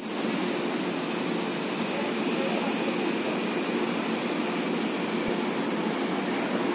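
Steady ambient noise: an even rumble and hiss with no distinct event.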